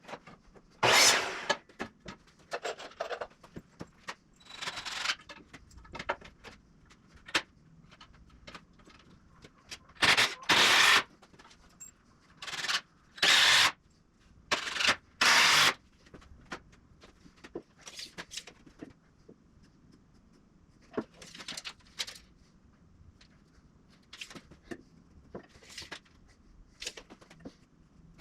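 Intermittent woodworking on 2x4 lumber: a series of short scraping, rubbing bursts of about half a second each, with scattered clicks and knocks between.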